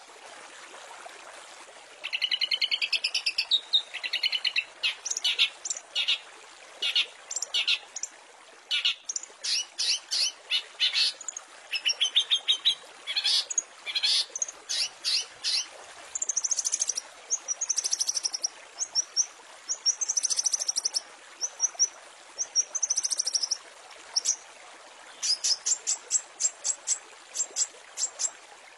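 Long-tailed shrike (cendet) singing a varied, mimicking song of harsh chirps, quick trills and high whistles, ending in a fast even run of notes, over a steady faint hiss. The song starts about two seconds in.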